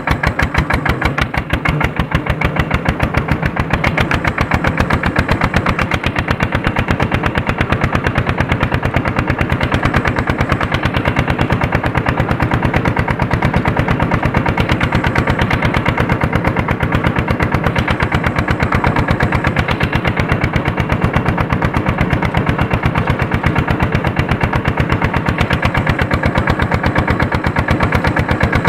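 Andoria single-cylinder diesel engine running steadily under load while pulling a harrow, its exhaust beats coming in a rapid, even rhythm.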